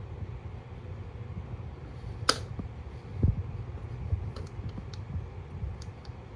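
Hands handling the parts of an old generator's fuel system: a sharp click a little over two seconds in, a dull knock about a second later, and a few light ticks, over a low steady hum.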